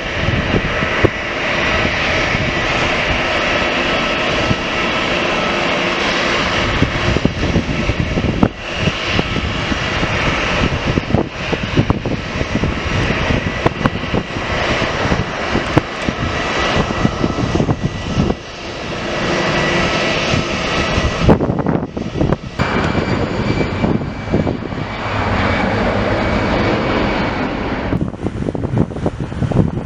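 Aircraft engines running loud, a dense rush of noise with a steady high whine through it; the sound dips briefly and shifts in tone in the last third.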